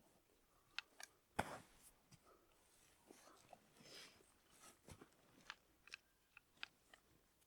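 Faint, scattered clicks and crunches of small things being handled, with one louder knock about a second and a half in.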